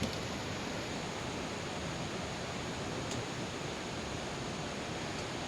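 Steady hiss of heavy rain falling, with a faint click about three seconds in.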